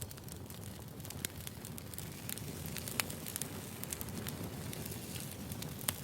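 Wood fire crackling: a steady low rumble of burning logs with scattered sharp pops, a louder pop about halfway through and another near the end.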